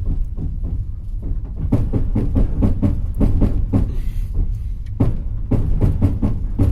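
Passenger train running, heard from inside the carriage: a steady low rumble with many irregular sharp knocks as the wheels clatter over rail joints.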